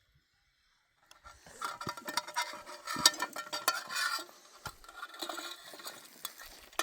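Cookware and utensils clinking and clattering in quick, irregular strikes with a faint metallic ring, starting about a second in and thinning out toward the end.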